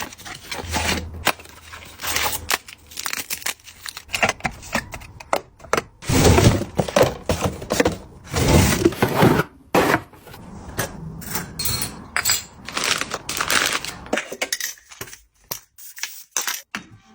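Packaging being handled and opened: irregular crackling and crinkling with some tearing, broken by scattered sharp clicks and taps.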